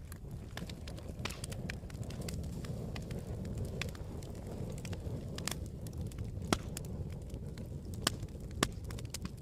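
Campfire burning: a steady low rush of flames with scattered sharp crackles and pops, three louder pops near the end.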